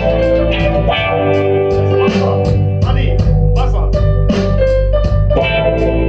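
Blues-rock band playing live: electric guitar lines over bass and drums keeping a steady beat.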